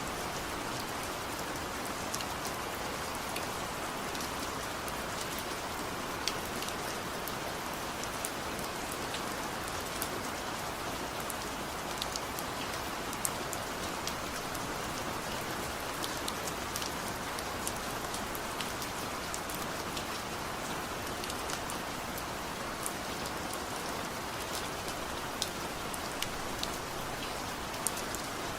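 Steady gentle rain falling, with no thunder: an even hiss of rainfall with scattered sharp ticks of single drops striking a hard surface.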